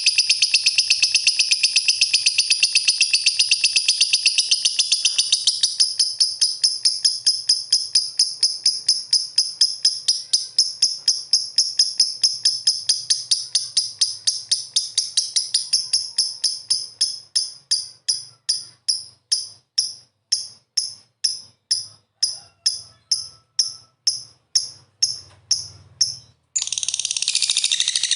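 Lovebird giving a long, high-pitched chattering trill that gradually slows to about three separate sharp chirps a second in the second half, then breaks off and gives way to another dense burst of chatter near the end.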